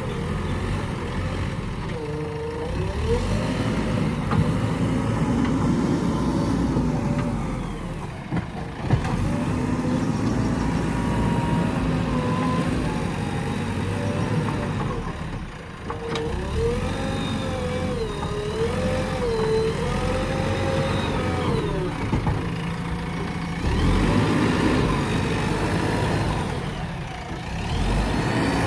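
JCB backhoe loader's diesel engine running under varying load, its pitch repeatedly dipping and rising as the machine works.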